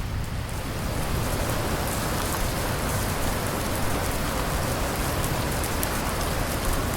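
Steady heavy rain with faint ticks of single drops and a low rumble underneath.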